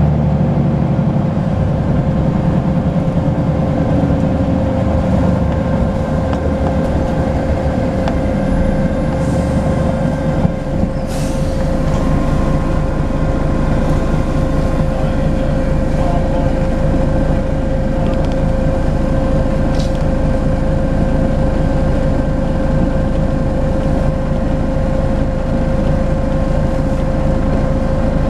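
Volvo B10BLE bus's diesel engine running steadily under way, with a steady turbo whistle at one pitch over the engine rumble. A short click, then a brief hiss, about ten to eleven seconds in.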